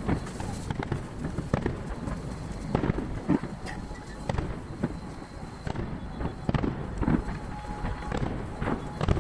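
Fireworks shells bursting about 800 m away: a rapid, irregular string of booms and cracks with echoes rumbling between them. The recording is sped up threefold, so the bursts come in quick succession.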